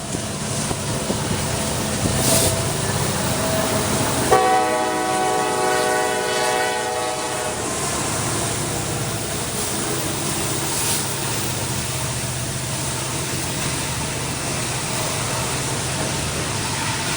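Norfolk Southern freight train passing with a steady low rumble. About four seconds in, a locomotive air horn sounds one chord for about three seconds.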